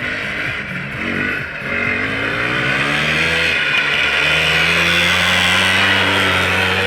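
Homemade snowmobile's IZh Planeta Sport single-cylinder two-stroke engine running under way, its note climbing in steps about a second and a half and four seconds in, then holding steady.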